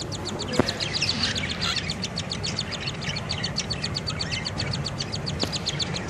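Birds chirping in a fast, even, raspy series, about eight chirps a second, with two faint clicks.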